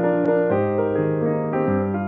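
Solo piano playing slow, sustained chords that change every half second or so, with one short click about a quarter second in.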